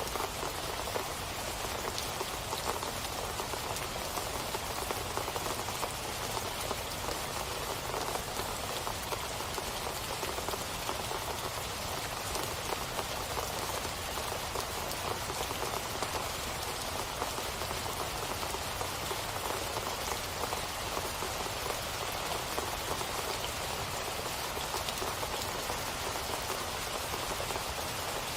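Steady rain falling on a surface, a dense even patter of drops with no breaks or changes.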